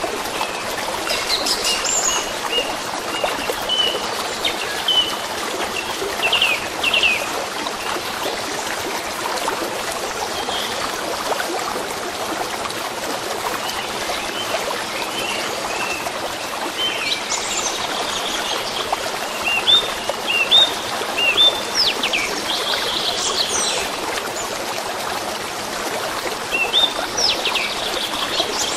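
A stream running steadily, with songbirds chirping and whistling over it in short bursts of calls, busiest early on, in the middle and near the end.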